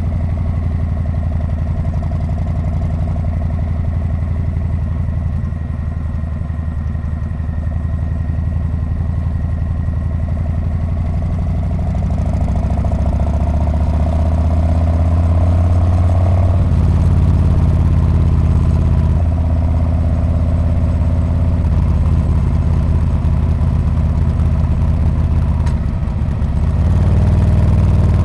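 Harley-Davidson Street Bob's V-twin engine and muffler running while riding. The engine note rises through the middle, changes abruptly about two-thirds of the way in, and dips briefly near the end before coming back louder.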